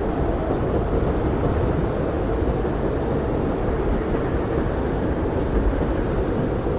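Blizzard wind blowing steadily: a dense, low rush of noise with no gusts or breaks and little hiss.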